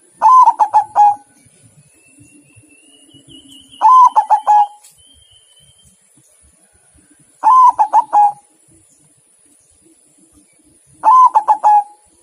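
Zebra dove (perkutut) cooing: four short phrases, each a quick run of several notes, repeated about every three and a half seconds.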